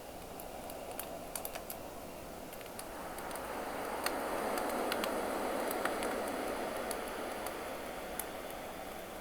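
Campfire crackling with scattered sharp pops over the wash of sea waves; the surf swells to a peak about halfway through and then recedes.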